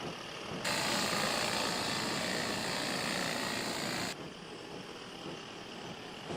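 Robotic hummingbird in flight, its flapping-wing drive giving a steady whirring buzz that gets louder and cuts in abruptly just under a second in, then drops back abruptly about four seconds in.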